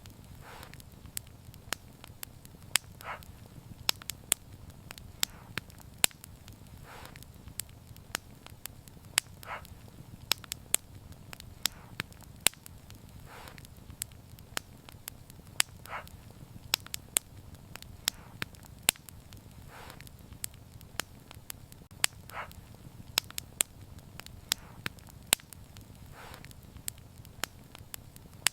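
Wood fire crackling: sharp, irregular pops and snaps over a steady low rumble of flames, with a soft hiss every few seconds.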